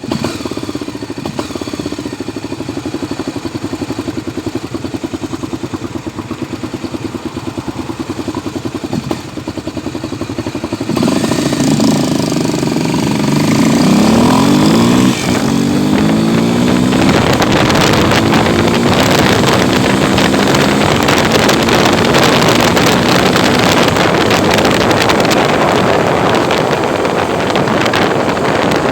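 Honda XR250 Tornado's single-cylinder four-stroke engine running at a steady idle. About eleven seconds in it gets louder and revs up in several rising sweeps, as if accelerating through the gears. From the middle on it settles into a louder, steady running sound with rushing noise over it.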